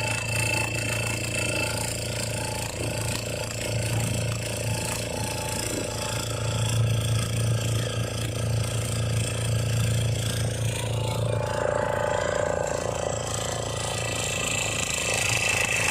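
Boat engine running steadily with a low hum, the motor of a passenger boat under way.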